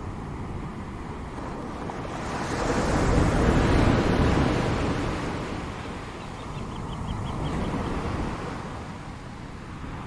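Ocean waves breaking on a shore: one large wave swells and crashes about three to four seconds in, and a smaller one follows near the end, over a steady wash of surf.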